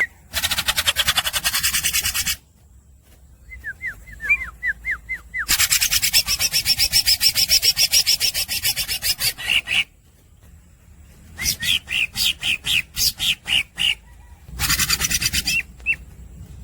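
Cucak ijo (green leafbird) singing in its continuous "los dol" style: several bursts of rapid, harsh, buzzy rattling, the first about two seconds long and the second about four, separated by short pauses, with a quick run of short whistled chirps a few seconds in and more chirps woven into the later bursts.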